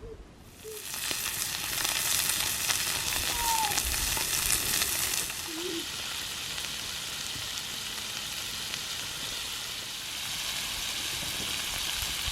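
Pork belly sizzling, a steady hiss that starts up just under a second in and is loudest for the first few seconds.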